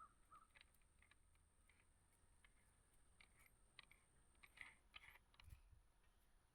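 Near silence: a few faint, scattered clicks and taps over a faint steady high-pitched tone.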